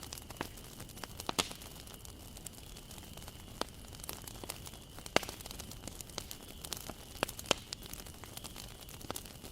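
Wood fire crackling: irregular sharp pops and snaps of burning wood over a low steady hiss. The loudest pop comes about five seconds in.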